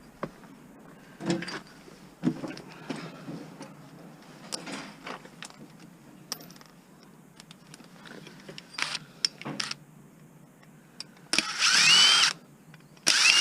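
Power drill driving a bit in two short bursts near the end, its whine rising in pitch as it spins up. Before that come light knocks and clatter of metal parts being handled.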